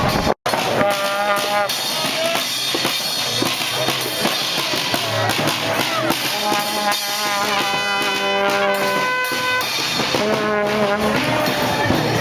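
A brass band playing a few long held notes, with drums, over steady street noise. The sound drops out for a split second just after the start.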